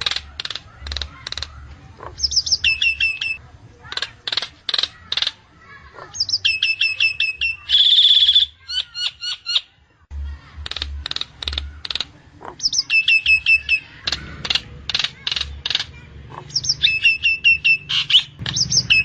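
Nias hill myna calling: runs of sharp clicking notes alternate with a whistled phrase that drops from a high note to a string of short, lower repeated notes, the pattern coming round several times. A loud, harsh buzzy call stands out about eight seconds in.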